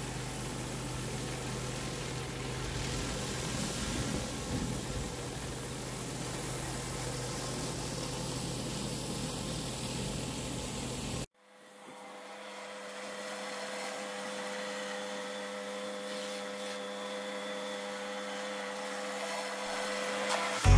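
Pressure washer running steadily, a machine hum under the hiss of the spray. About eleven seconds in the sound cuts off abruptly, and a similar steady machine hum fades back in.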